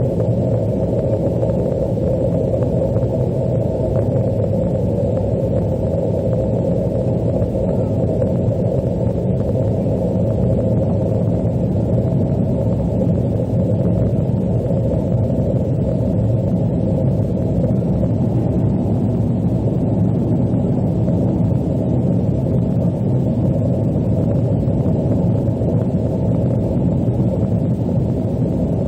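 Steady, loud cabin rumble of an Airbus A330-200 airliner, its engine and airflow noise heard from inside the passenger cabin, with no sudden changes.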